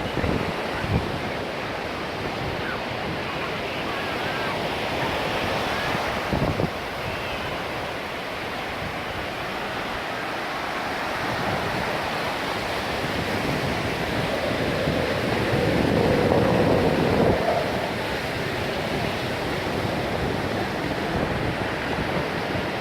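Steady rush of surf and wind buffeting the microphone, swelling louder for a few seconds past the middle.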